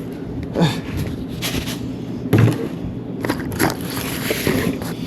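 A few scrapes and knocks from things being handled, the loudest a dull thump about two and a half seconds in.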